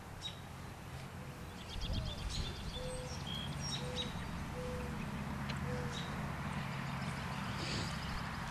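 Birds calling outdoors: scattered short high chirps, and a lower call of about six short notes repeated over several seconds, over a steady low hum.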